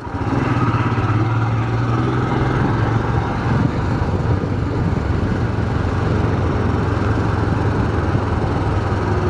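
Motorcycle engine running at a steady speed, with road and wind noise during the ride. It cuts off suddenly at the end.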